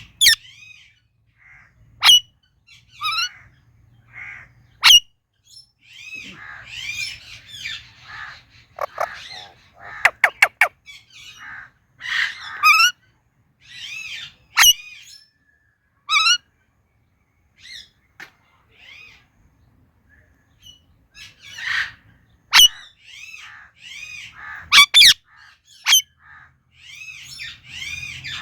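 Indian ringneck parakeet giving short chirping and squawking calls, broken by sharp, loud shrieks now and then, with a quick run of clicks about ten seconds in and a quieter spell past the middle.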